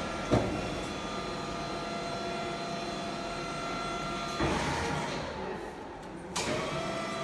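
Forklift running with a steady whine, a sharp knock just after the start, a rush of noise about four and a half seconds in and another knock near the end.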